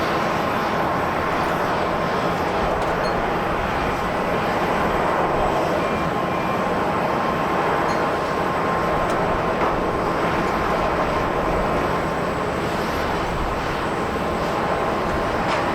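Jet airliner's engines running, a steady rushing noise with a faint, even whine through it.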